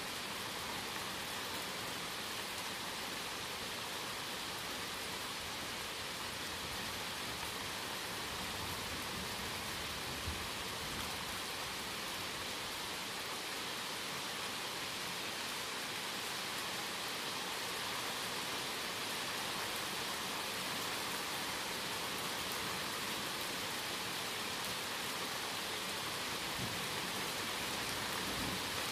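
Steady rain falling through a mixed conifer and hardwood forest during a thunderstorm: a dense, even hiss that grows slightly louder near the end.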